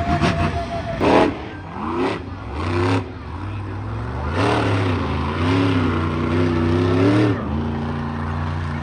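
Monster truck engine revving up and down, with a loud bang about a second in; near the end the engine settles to a lower, steady note.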